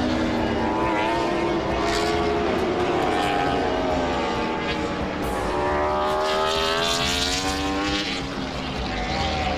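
Suzuki GSX-RR MotoGP race bike's inline-four engine running hard, its note climbing and falling several times as it accelerates and slows.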